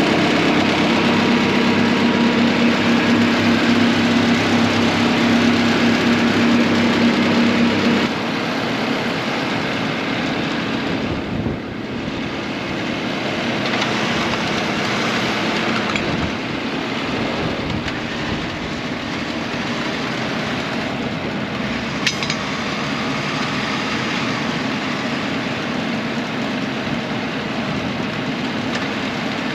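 A vehicle engine running steadily with a strong hum. About eight seconds in, the sound drops suddenly to a quieter, rougher engine rumble, which carries on to the end.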